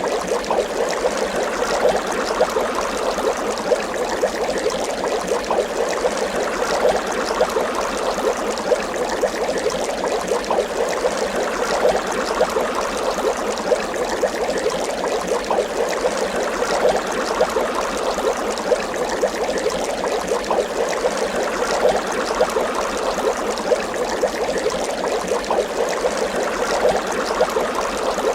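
Water bubbling continuously: a dense stream of small bubbles popping and gurgling, steady throughout.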